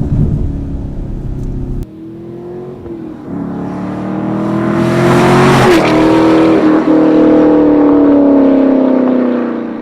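Chevrolet Camaro SS 6.2-litre V8 running through a performance exhaust: a deep rumble that cuts off abruptly about two seconds in, then the engine note builds under acceleration, is loudest through the middle and latter part, and fades near the end.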